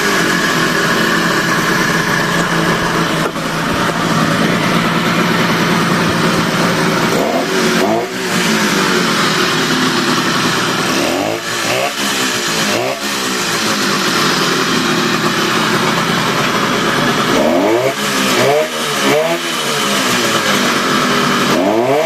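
Yamaha HS1 motorcycle's 90cc two-stroke twin engine (an HX90 unit) running, with the throttle blipped several times so the revs rise and fall in short bursts. A light rattling engine noise is prominent, made more noticeable by the indoor room.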